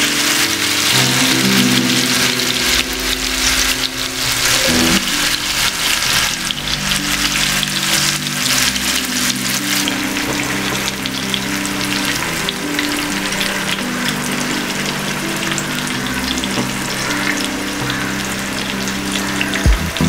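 Masala-coated chicken breast shallow-frying in hot oil in a pan, sizzling with dense crackling and spitting that thins out a little in the second half.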